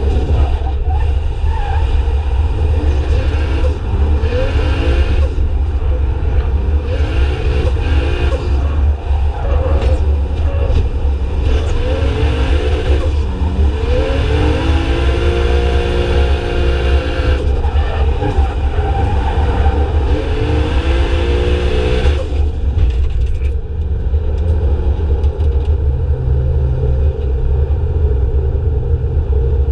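Drift cars sliding past, engines revving with pitch rising and falling and tyres screeching, for about twenty seconds before dying down to a lower steady rumble.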